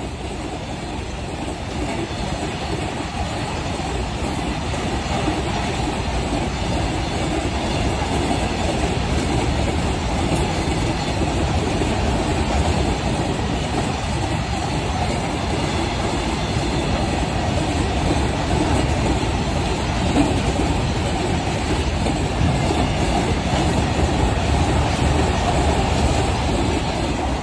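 Open-top goods wagons of a long freight train rolling past: a steady noise of steel wheels on rail that grows a little louder over the first few seconds.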